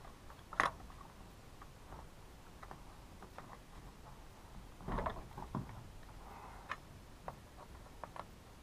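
Scattered clicks and light knocks of a Husqvarna T435 chainsaw's parts being handled and turned over during disassembly. There is a sharp click about half a second in and a short cluster of knocks around five seconds in.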